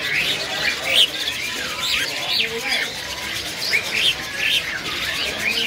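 Many caged birds chirping and calling at once: a dense, overlapping jumble of short high chirps and whistles, with faint voices underneath.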